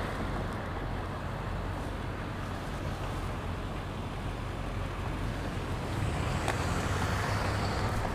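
Wind buffeting an action camera's microphone on a moving bicycle, over the rumble of road and traffic noise. A low hum grows louder about six seconds in.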